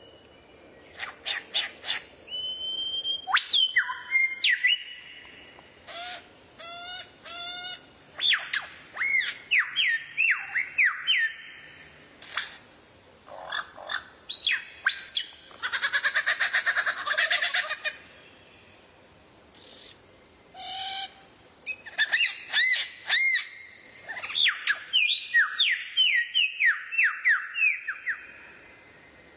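Songbird singing a varied song: clear whistled notes, quick runs of repeated arched notes and a buzzy trill, sung in phrases with short pauses between them.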